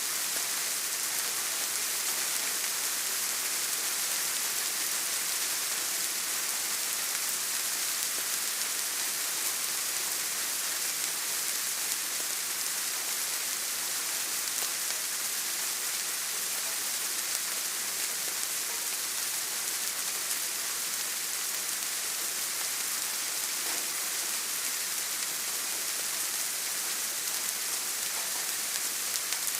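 Steady rain falling, an even hiss weighted toward the high treble, with no separate drops or thunder standing out.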